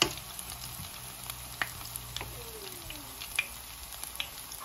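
Kalabasa okoy, grated squash fritters, frying in hot oil in a pan: a steady sizzle with scattered small pops, and a sharp tap right at the start.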